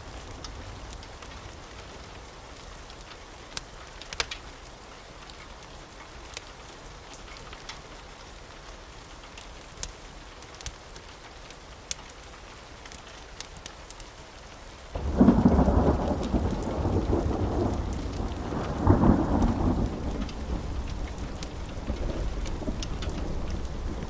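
Steady rain with scattered sharp pops. About fifteen seconds in, a loud thunder rumble breaks in, swells again a few seconds later and slowly dies away.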